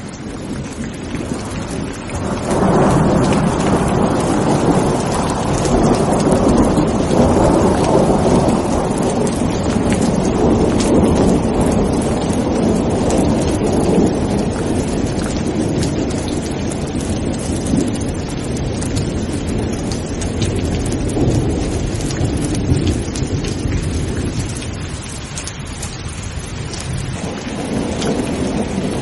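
Heavy rain falling as a steady hiss with scattered drop ticks, under long rolling thunder. The sound fades in at the start. A rumble swells about two and a half seconds in and dies away slowly over the next fifteen seconds or so, and another rumble builds near the end.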